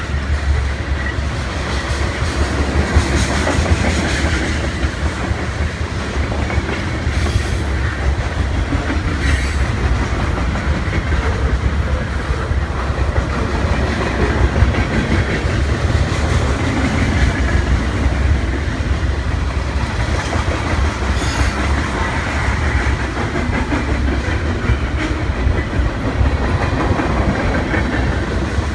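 Freight train cars (tank cars and lumber-laden flatcars) rolling past, a steady heavy rumble of steel wheels on rail with a few sharper clacks over the rail joints.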